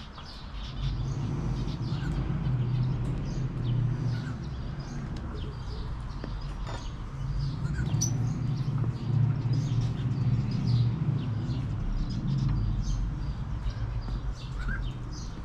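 Small birds chirping repeatedly in short, high calls, over a steady low rumble that grows louder about a second in.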